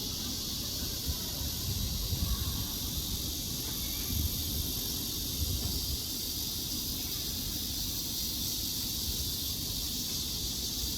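A chorus of cicadas droning steadily in a high, hissing buzz, over a low fluctuating rumble.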